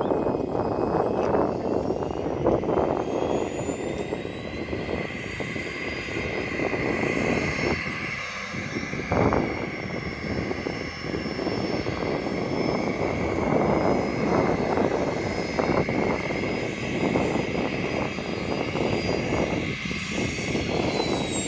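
Small jet engine of a Möwe-replica glider whining in flight. Its high whine climbs in pitch over the first several seconds, holds steady, then drops near the end. Heavy wind buffets the microphone throughout.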